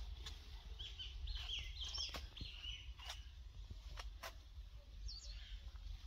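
A bird singing a quick series of short chirping notes for a couple of seconds, with one more chirp near the end. A few sharp clicks and a steady low rumble run underneath.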